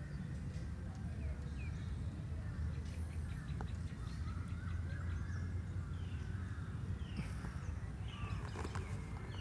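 Birds chirping in short, falling calls over a steady low rumble.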